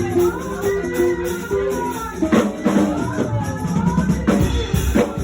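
Church praise music: a band with a drum kit and held keyboard or bass notes, with voices singing over it and a few heavier drum hits.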